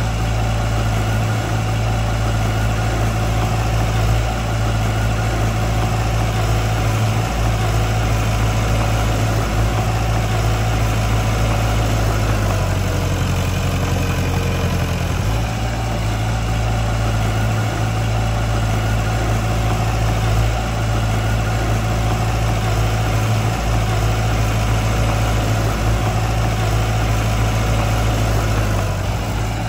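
Diesel engine of a piece of earthmoving machinery running steadily. Its note changes for about three seconds around the middle, then settles back.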